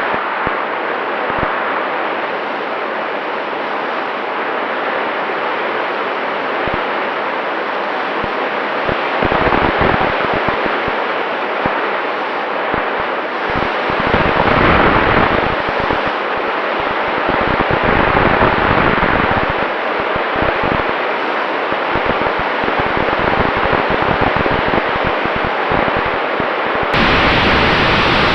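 Steady rushing wind noise from a Skyhunter 1800 RC plane in flight, with uneven low buffeting and a faint steady tone. About 27 seconds in, the rush suddenly becomes louder and brighter.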